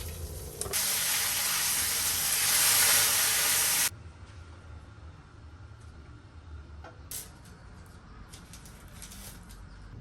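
A steady, loud hiss lasting about three seconds that starts and cuts off sharply, followed by faint room sound with a single click.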